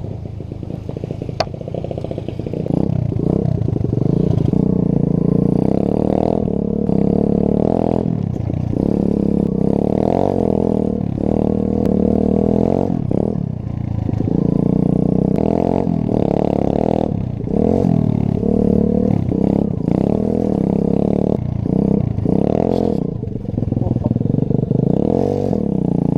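A 125cc pit bike's engine revving up and down unevenly as it is ridden, with a loud exhaust. It is running rough and jolty.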